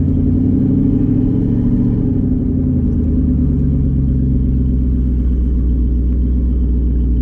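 Twin-turbo Ford Coyote 5.0 V8 in a Mustang running at low, fairly steady revs while driving, heard from inside the car. Its pitch shifts a little in the first couple of seconds, then holds steady.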